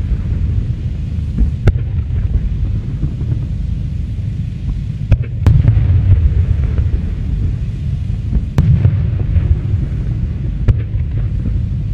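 Aerial fireworks shells bursting: a continuous low booming rumble that swells and fades, with about five sharp cracks scattered through it.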